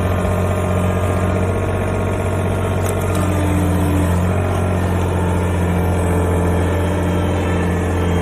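Yanmar VIO20-1 mini excavator's diesel engine running steadily at an even speed.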